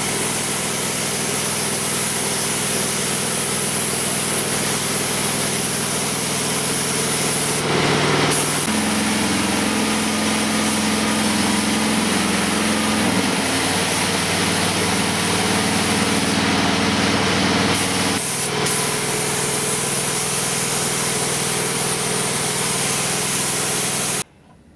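Compressed-air paint spray gun hissing steadily as aircraft paint is sprayed, over the steady hum of a motor whose pitch shifts twice. The hiss and hum cut off suddenly near the end.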